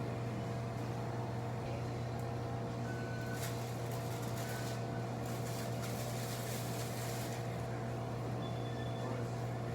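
Steady low machine hum with faint constant higher tones over it, unchanging throughout.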